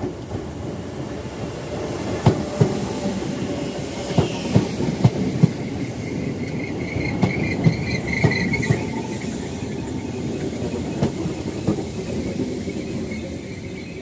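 Train rolling through a station: a low rumble with wheels knocking over rail joints at an uneven rhythm, and a brief high wheel squeal around the middle.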